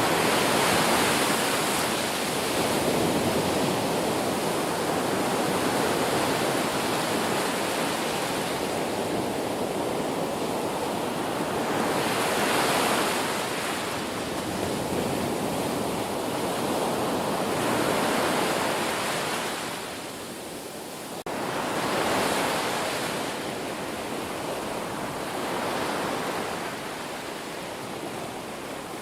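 Ocean surf: waves breaking and washing in a continuous rush that swells and eases every few seconds, with a brief lull about two-thirds of the way through before the next wave comes in.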